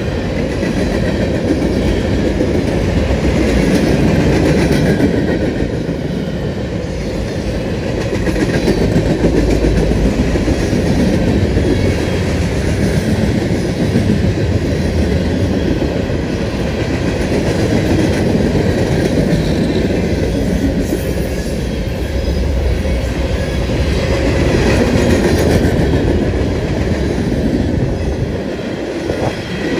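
Mixed freight cars of a long manifest train rolling past close by: a continuous rumble and clatter of steel wheels on the rails that swells and eases slightly as the cars go by.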